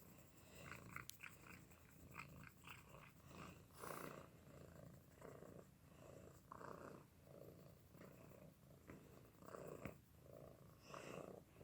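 Domestic cat purring faintly.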